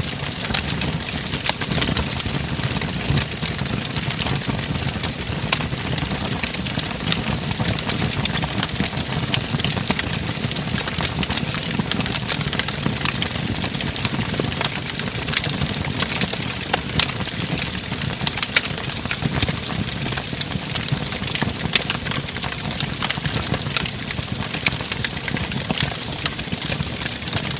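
Wood fire burning in a fireplace: a steady low rumble of flames with constant crackling and scattered sharp pops.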